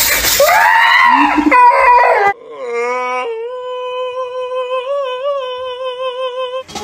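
A dog cries in rising and falling howls over running bath water. After about two seconds this gives way to a cat's single long yowl, held at a steady pitch with a slight wobble about two-thirds of the way through.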